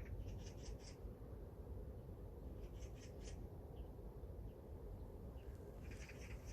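Wind buffeting the microphone as a steady low rumble, with short bouts of high chirping calls three times: near the start, around the middle and near the end.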